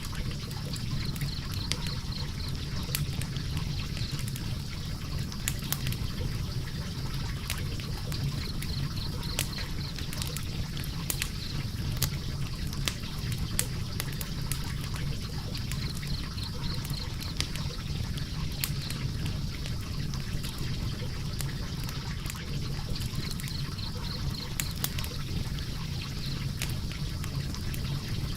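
Log fire burning in a fireplace, crackling and popping with frequent irregular sharp snaps over a steady low rumble of the flames.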